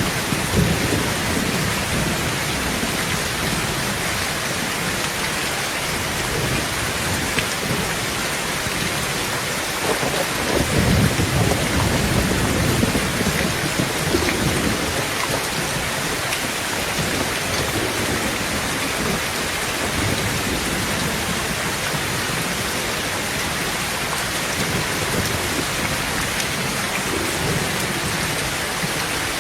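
Heavy rain drumming steadily on a tin roof, with a low rumble of thunder swelling about ten seconds in and dying away a few seconds later.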